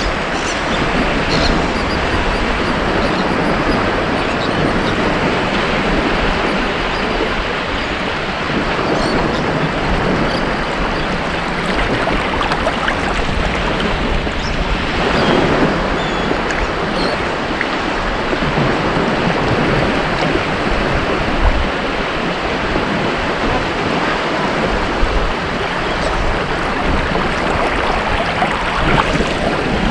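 Ocean waves washing onto a beach in a continuous surf, with a slight swell about halfway through.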